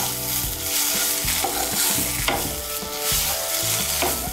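Mashed pointed-gourd paste frying in a nonstick pan, sizzling steadily while a spatula stirs and scrapes it around the pan. The paste is fried dry and comes away from the pan in one mass, the sign that it is fully cooked.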